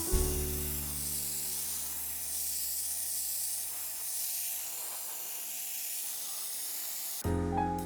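Steady hiss of paint being sprayed, lasting about seven seconds as a held low note of the background music fades away. The music comes back near the end.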